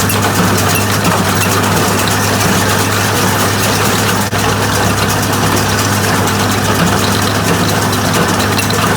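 Tractor engine running steadily at an even low hum.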